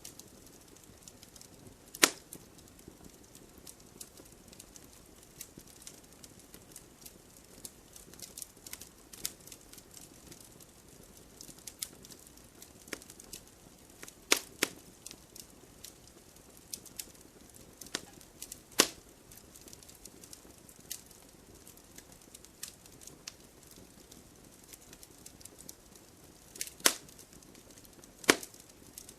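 Wood campfire burning: a soft hiss with irregular crackling and several loud, sharp pops from the burning wood.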